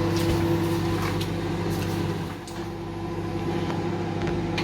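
Microwave oven running with a steady hum while it heats a bowl of maize meal and water.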